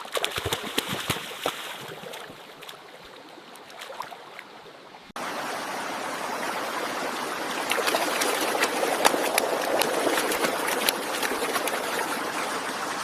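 Running water flowing steadily with many small splashes, quieter at first and then suddenly louder about five seconds in.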